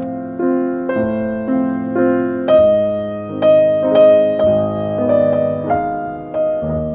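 Slow, gentle piano music: single notes and chords struck about every half second and left to ring and fade.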